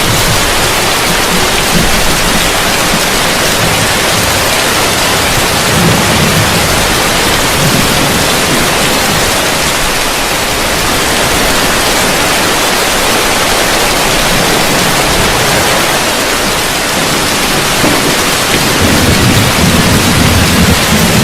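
Heavy rain falling on a roof, a dense, steady hiss. Near the end a low rumble of thunder comes in under it.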